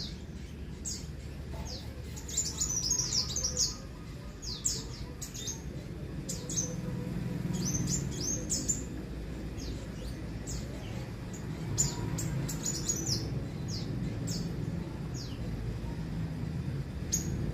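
Sunbird (kolibri kowul) calling: repeated short, high, sharp chirps that drop in pitch, coming in quick clusters, over a low steady rumble.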